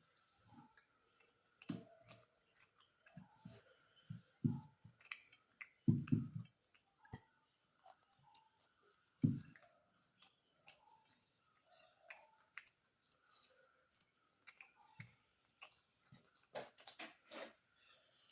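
A person chewing and eating beef biryani close to the microphone: irregular wet mouth sounds and lip smacks, with scattered sharp clicks, a cluster of them near the end.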